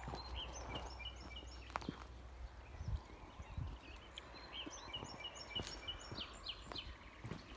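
Small birds chirping in quick, repeated short notes, with a few scattered knocks.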